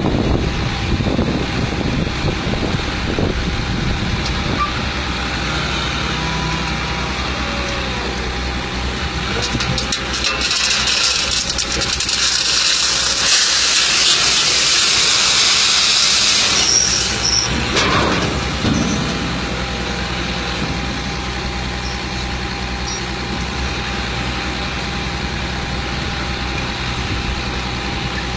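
Dump truck engine running steadily, with a loud hiss lasting about seven seconds starting about ten seconds in.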